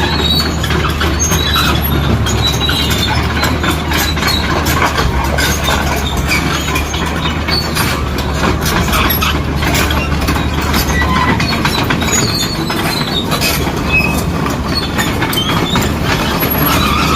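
Heavy demolition machinery working: a diesel engine runs steadily under continual metallic clanking and scraping, with short high-pitched squeals.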